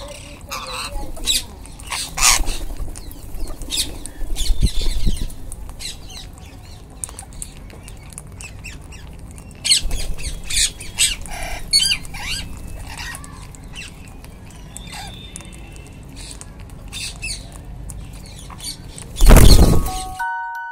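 Wild rose-ringed parakeets (Indian ringnecks) giving short, shrill squawking calls, some in quick clusters, with a low rumble under them. About a second before the end comes a brief loud rustling burst, the loudest sound.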